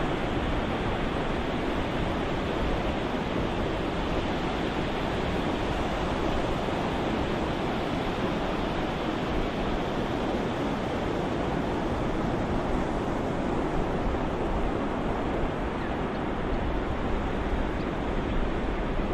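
Ocean waves used as white noise: a steady, even rushing of surf without distinct individual wave breaks.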